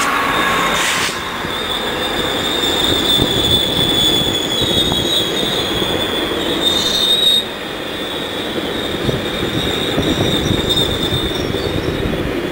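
A train rolling past with a steady high-pitched wheel squeal over the rumble of its wheels on the rails.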